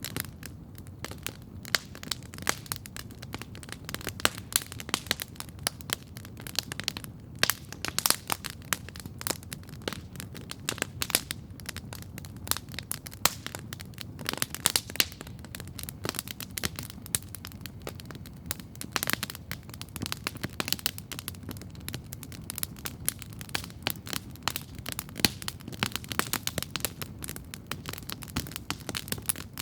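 Wood campfire crackling steadily: dense, irregular sharp pops and snaps over a low, steady rush of flame.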